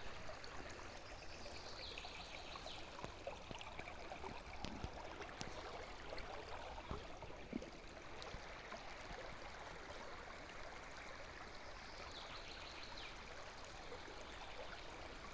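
River water flowing steadily, a faint continuous rush of a stream.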